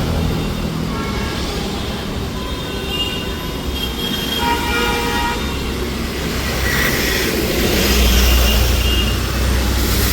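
Busy street traffic with vehicle horns honking several short times. Underneath is a steady low engine rumble that grows louder near the end.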